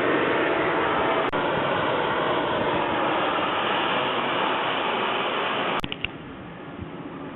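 Kerosene-burning turbine engine of a radio-controlled model jet running as a loud, steady rush of noise, which cuts off suddenly about six seconds in, leaving a quieter background.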